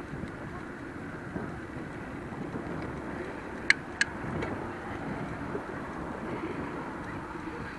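Bicycle riding along a paved promenade: a steady rumble of tyres with wind on the microphone, and two sharp clicks about three and a half and four seconds in.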